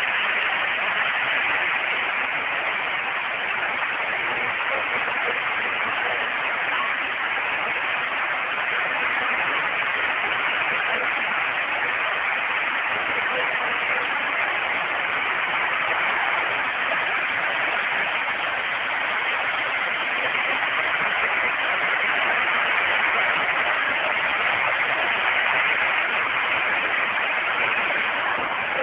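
Heavy rain from a summer storm pouring down steadily, an even hiss with no breaks.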